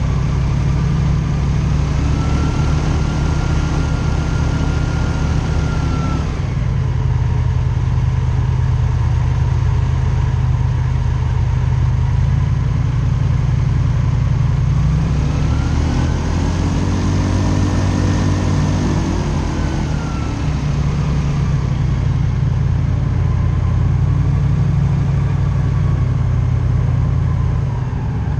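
Airboat engine and open propeller running loud and steady, with a deep, even drone. The pitch rises and holds for a few seconds early on, then climbs and falls back again near the middle as the engine revs up and eases off.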